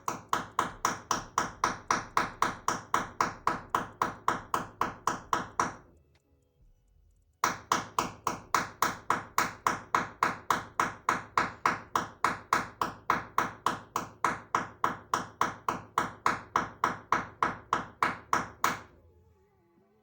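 A nail being hammered with a makeshift tool instead of a hammer: quick, even, ringing metallic strikes, about four or five a second. There are two long runs, broken by a pause of about a second and a half a little before halfway.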